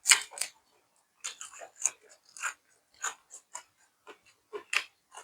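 Close-up chewing with a string of short, irregular crisp crunches, about two a second: a person eating fresh raw vegetables with steamed tongue.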